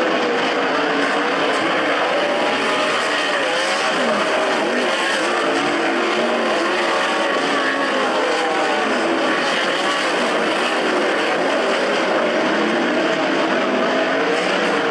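Several 360 sprint cars' V8 engines running together on a dirt oval, their overlapping pitches wavering up and down as the drivers lift and get back on the throttle.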